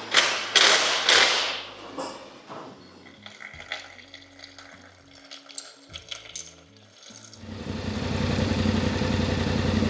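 A few sharp knocks and clatters, then quiet scattered clicking. About seven and a half seconds in, the Yamaha Ténéré 700's parallel-twin engine comes in and idles steadily.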